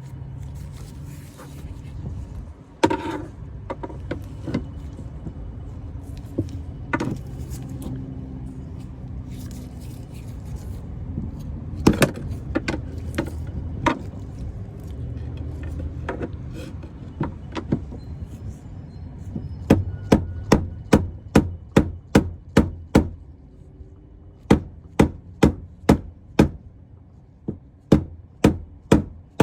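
Sharp taps like a hammer striking, scattered at first, then in quick runs of about two a second in the last third, over a steady low hum.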